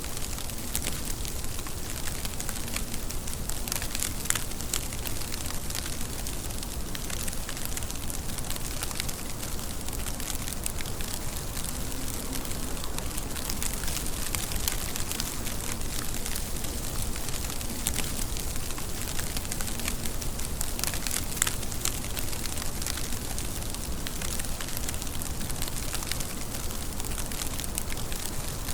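Steady rain, a continuous hiss of falling water with many close, sharp drop ticks scattered through it; two louder drop hits stand out about 4 seconds and 21 seconds in.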